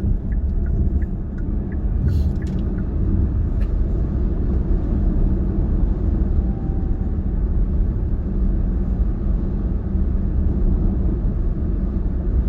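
Car driving, with a steady low rumble of engine and road noise. A light regular ticking, about three a second, runs through the first few seconds and then stops.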